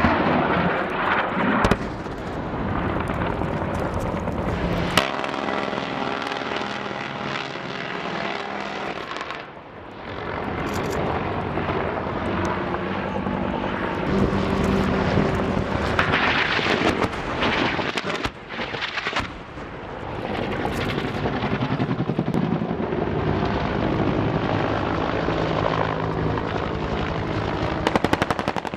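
Helicopter flying, its rotor and turbine running steadily, with a few sharp bangs of weapons fire.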